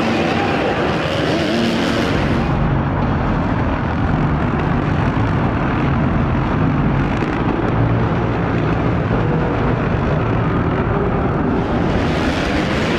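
Motocross dirt bike engines running at race speed, a steady dense engine noise that turns duller from about two and a half seconds in until near the end.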